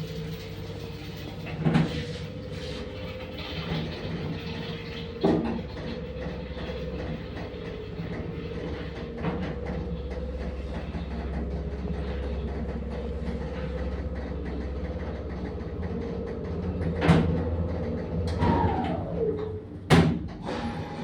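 1972 Soviet passenger elevator running: a steady hum with a constant whine and low rumble, broken by sharp knocks now and then. Near the end a falling tone comes just before a loud knock.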